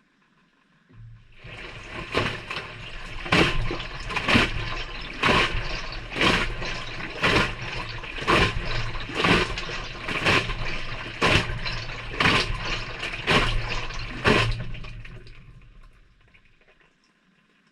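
Maytag front-loading washing machine on a delicate cycle, heard from inside the drum: the motor starts about a second in and the drum turns, tumbling the wet laundry with a splash of water about once a second over a low hum. The tumble slows and stops near the end, the usual pause before the drum reverses.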